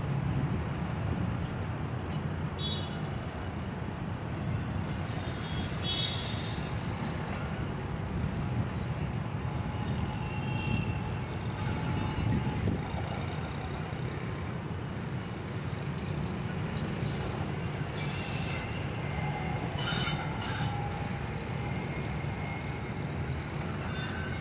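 Steady low rumble of a Pakistan Railways passenger train moving along the tracks, heard from a distance, with brief high tones now and then.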